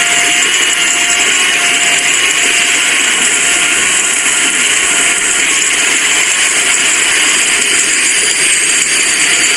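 Heavy, pouring rain making a loud, steady hiss. Through it a level-crossing warning alarm beeps over and over, one short tone every half second or so.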